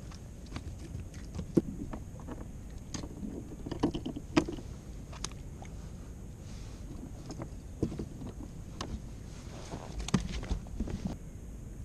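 Scattered knocks and clicks aboard a fishing kayak, over a steady low rumble of wind and water.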